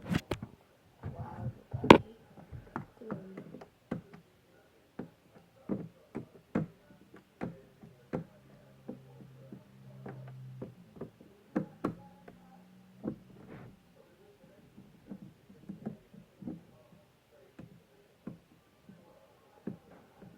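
Irregular taps, knocks and clicks of a Funko Pop box and its packaging being handled and opened, with a low steady hum for about two seconds near the middle.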